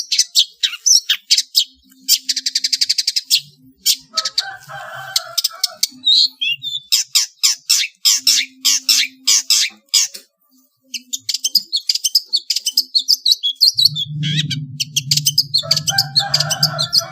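Long-tailed shrike (pentet) singing: rapid runs of sharp, high chirping notes, with a fast rattling trill about two seconds in. A low steady hum comes in near the end.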